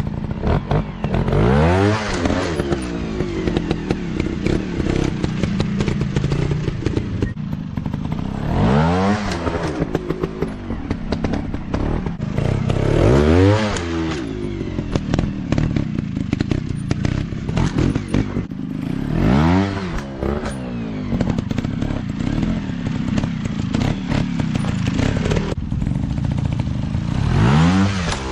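Dirt bike engine revving up hard and dropping back again and again, a rise and fall roughly every five seconds, with clattering and knocking throughout.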